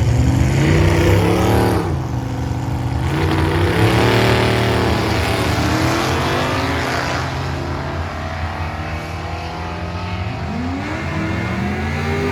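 Drag-racing car engines at full throttle on the strip, their pitch climbing and then dropping at gear changes; a second rise begins near the end.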